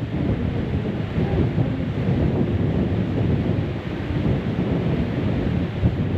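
Steady low rumble of wind buffeting the microphone on a moving river boat, mixed with the boat's engine and rushing water.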